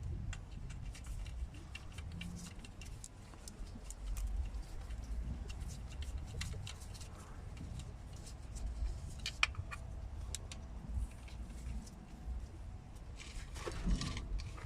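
Scattered light clicks and taps of tools and parts being handled over a steady low rumble, with a short cluster of clicks near the end.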